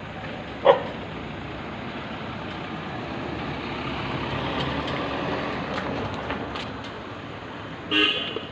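A single dog bark about a second in, then steady road traffic passing that swells and fades, and a short vehicle horn toot near the end.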